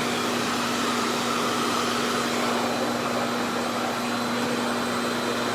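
RevAir reverse-air hair dryer running steadily, its suction motor pulling air and a section of hair into the wand: a constant rush of air over a steady low hum.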